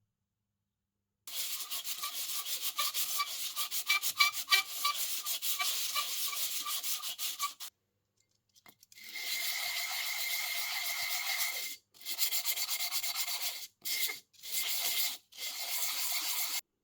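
Abrasive sanding of a metal part: first rhythmic back-and-forth strokes about three a second, then steadier rubbing in several short runs broken by brief pauses.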